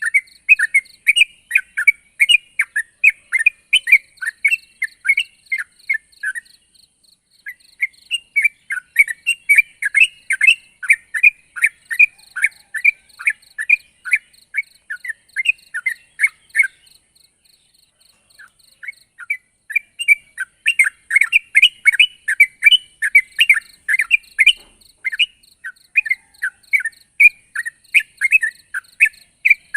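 Yellow-vented bulbul (trucukan) singing in full voice: fast, unbroken strings of short bubbly chirps. The song breaks off briefly twice, about a quarter of the way in and again a little past halfway, then resumes.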